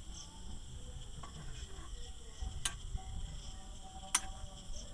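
Crickets chirring in a steady night chorus, with two sharp clicks about two and a half and four seconds in.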